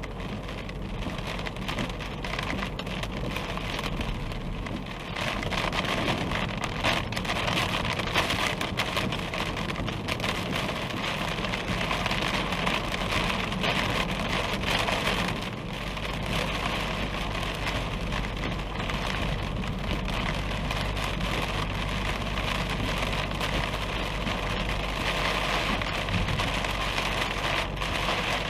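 Heavy rain during a thunderstorm: a steady rush of rainfall with many close, sharp drop hits. It grows louder about five seconds in.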